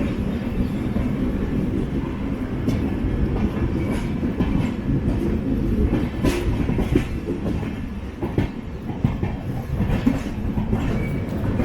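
Passenger train coach rolling slowly, with a steady rumble and irregular wheel clicks over rail joints, clustered about halfway through.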